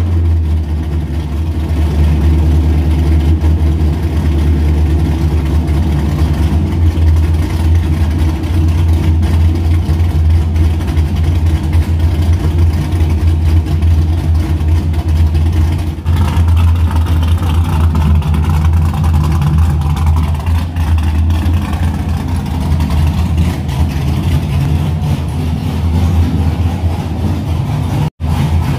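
LS V8 in a Mazda RX-7, just cold-started and running steadily. It is very loud, with a deep, even rumble.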